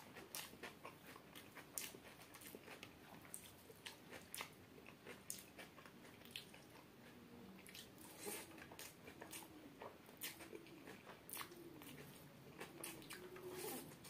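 Close-miked chewing of chicken biryani eaten by hand, with frequent small wet mouth clicks and lip smacks. Short faint low hums come and go in the second half.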